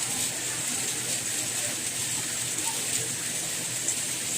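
Steady rain falling, an even hiss of many fine drops with faint scattered patters.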